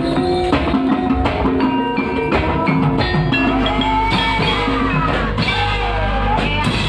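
Javanese gamelan music accompanying an ebeg hobby-horse dance: struck metal keys ringing over drum strokes, with a sliding melodic line weaving up and down in the middle.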